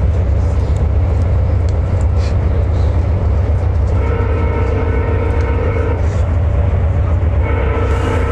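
Passenger train's low, steady rumble. A held chord of several steady tones sounds twice, about two seconds each time, starting about four seconds in and again near the end.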